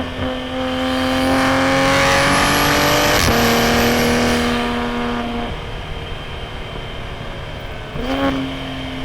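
Toyota GR Supra A90's B58 turbocharged inline-six running hard through a straight-piped titanium single-exit exhaust, holding a strong, steady note. There is a sharp break with a slight drop in pitch about three seconds in. The engine eases off from about five and a half seconds, then comes back on strongly near the end.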